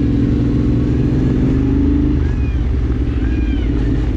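Vehicle engine running steadily, its note dropping about two seconds in. Over it, a peacock's rising-and-falling calls begin faintly from about two seconds in.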